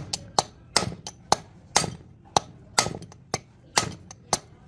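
Hammer blows struck at a steady pace of about two a second, each a sharp strike with a brief ring.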